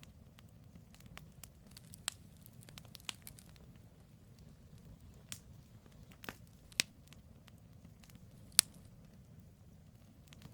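Firewood burning in a campfire, crackling with scattered sharp pops over a low steady rumble. The loudest snap comes most of the way through.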